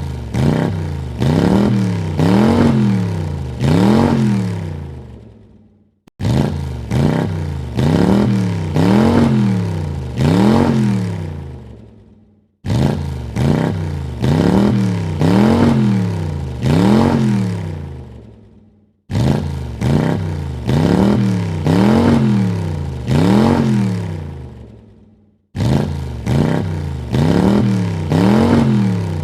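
A car engine revved in four quick blips, the pitch rising and falling with each, then dying away. The same burst of revs starts abruptly again about every six and a half seconds.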